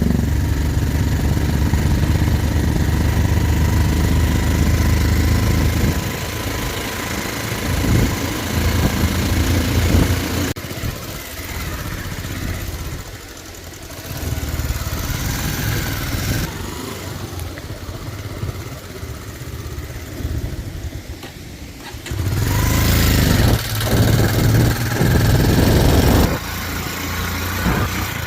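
Motorcycle engine running while the bike is ridden. The engine note is strong at first, eases off around the middle, and picks up loudly again in the last few seconds.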